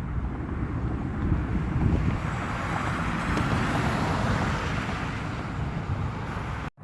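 Jet airliner engines passing, a low rumble with a rushing hiss that swells through the middle and eases off, with wind buffeting the microphone. The sound cuts off abruptly near the end.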